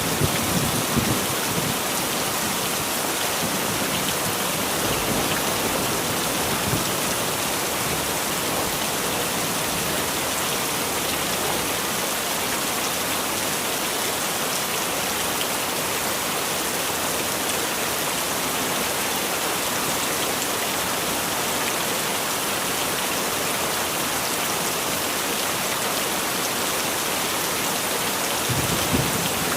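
Heavy rain falling steadily in an even hiss. A low rumble of thunder dies away in the first second or so, and another begins near the end.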